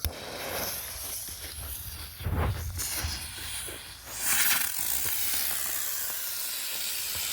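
A smoke chopper helicopter firework burning with a rushing hiss. The hiss flares up about two seconds in, grows louder about four seconds in, and then holds steady.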